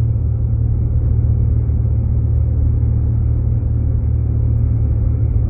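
Steady low rumble of a Jeep Grand Cherokee driving on snowy roads, engine and tyre noise heard from inside the cabin.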